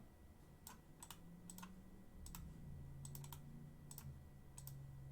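Faint, irregular clicks of computer keys being pressed, about a dozen spread over the few seconds, over a low hum.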